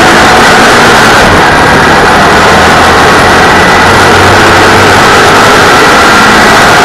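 Loud, steady engine of a 602 cc dirt-track racing car running hard at high revs, heard from inside the cockpit, mixed with a dense rush of wind and road noise.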